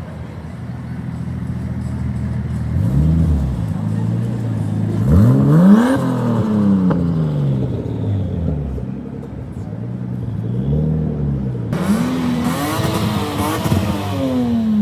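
Car engines being revved while parked: several rev blips that rise and fall in pitch over a steady idle, the biggest and loudest about six seconds in, with a long falling note near the end.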